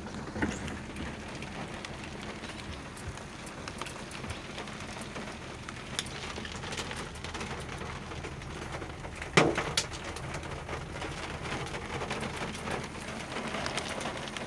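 Hail and rain pelting a car, a steady patter dotted with sharp ticks, and one loud knock about nine and a half seconds in.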